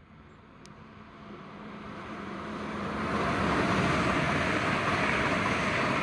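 Hitachi AT300 express multiple-unit train passing at speed: an even rush of wheels on rail and moving air that builds over about three seconds and stays loud as the coaches go by.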